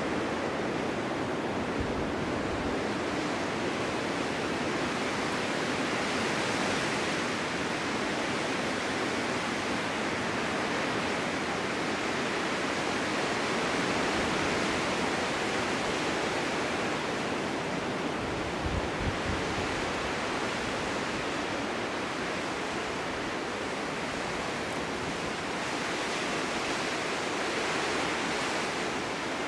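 Snowstorm wind blowing steadily, swelling in slow gusts and easing off between them.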